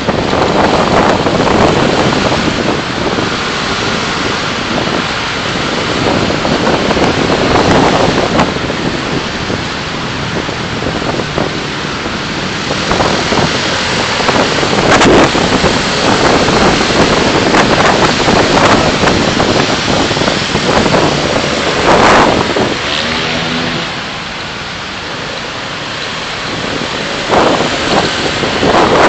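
Car driving through city traffic: a steady, loud rush of road and traffic noise, swelling now and then. About 23 seconds in, a brief pitched sound rises above it.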